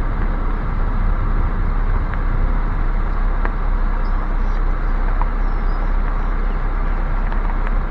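Steady low rumble of a car driving slowly, heard from inside the cabin, with a few faint ticks.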